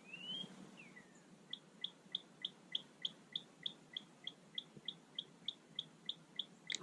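A bird singing faintly: a rising whistle, then a falling one, then a long, even series of short notes, about three a second.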